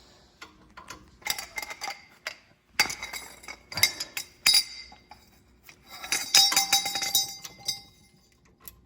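Metal hand tools clinking and ringing against the rear brake caliper as a bolt is loosened: irregular sharp clinks, some with a short metallic ring.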